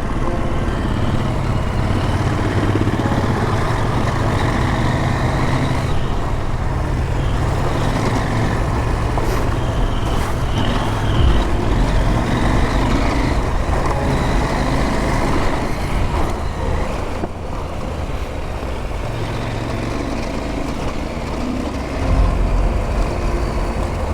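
Adventure motorcycle under way, its engine running steadily beneath rushing wind noise, getting louder briefly near the end.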